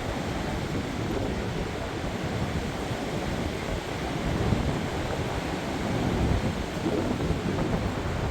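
Strong gusting wind, with heavy wind buffeting on the microphone giving a steady low rumble that swells a little in the second half.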